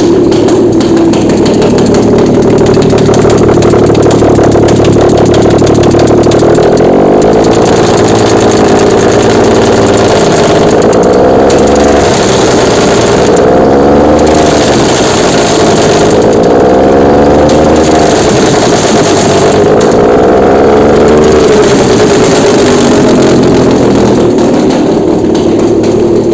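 Nissan VQ35DE 3.5-litre V6 engine running on a test stand: idling steadily, then revved up and back down several times over the middle stretch, then returning to a steady idle.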